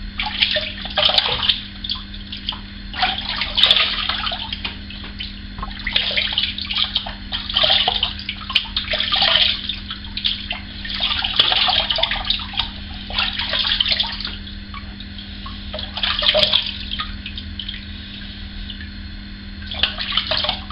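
Water running at a sink and splashed up in irregular handfuls, a dozen or so splashes each under a second: rinsing shaving lather off the face.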